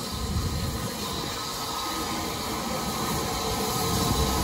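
A train running on the line, a steady rumble slowly getting louder.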